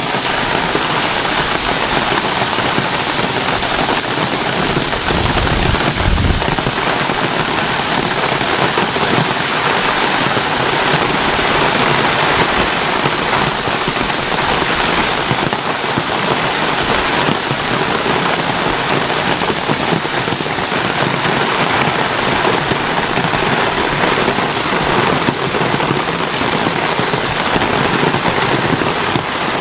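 Heavy rain pouring steadily, with a brief low rumble about five to six seconds in.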